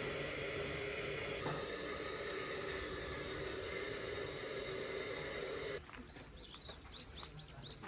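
A steady rushing hiss that cuts off abruptly about six seconds in, leaving birds chirping in short repeated calls.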